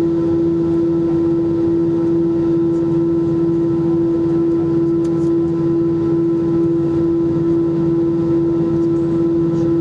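Airbus A320 airliner's steady hum, one strong constant tone over a lower undertone, holding level without rising.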